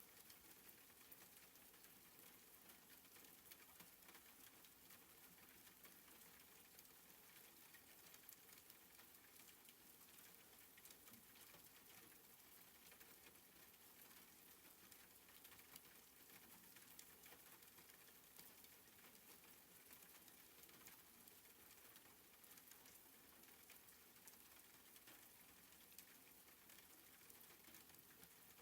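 Faint, steady soft rain pattering, a quiet hiss of many small drops ticking on a surface.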